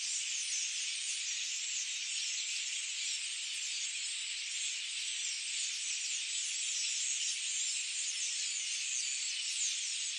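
Many birds chirping at once in a dense, continuous high-pitched chorus, countless short overlapping notes with no single song standing out.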